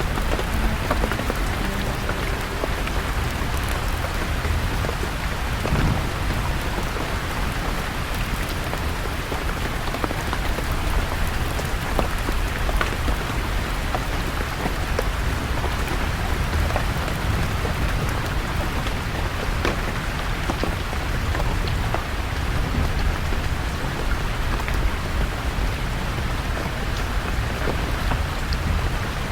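Steady rain falling, with scattered individual drops ticking and a low rumble underneath.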